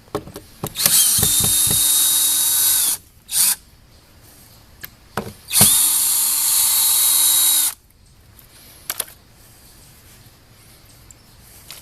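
Battery-powered DeWalt drill running at a steady speed with a high whine, in two runs of about two seconds each and a brief blip between them.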